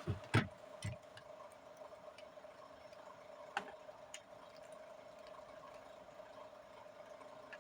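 Dry multani mitti (Fuller's earth clay) crunching in a few sharp cracks: the loudest just under half a second in, then scattered fainter ones, over a steady faint hum.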